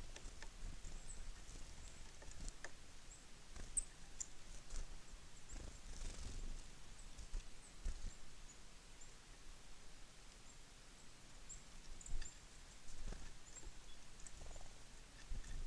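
Small birds at a feeder: scattered short, high chirps and calls, with irregular taps and knocks as birds land on and peck at the feeder.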